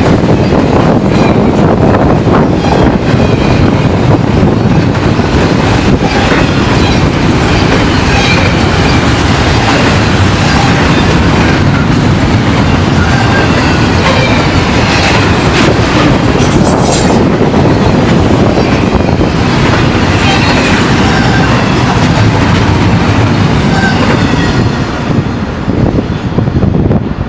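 Train cars rolling past at close range, their wheels clicking over rail joints, with brief high wheel squeal. The sound thins out near the end as the train clears.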